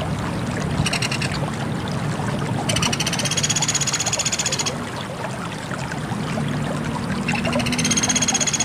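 Sunda pygmy woodpecker (pelatuk beras) giving rapid, high, buzzy trills: a short one about a second in, a longer one of about two seconds, and another starting near the end, over a steady background hiss.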